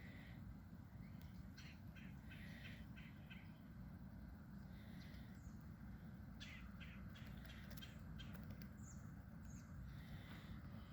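Faint, scattered bird chirps and short calls over a low, steady rumble.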